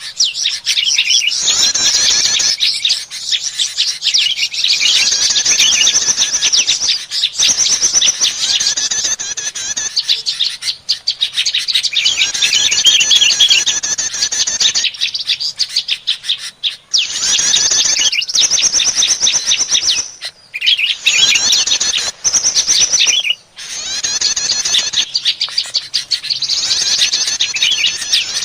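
Prinias (prenjak) calling in a fast, excited chatter: bursts of rapid high-pitched notes a few seconds long, with short breaks between them. This is a bird-trapping lure call meant to draw other small birds in.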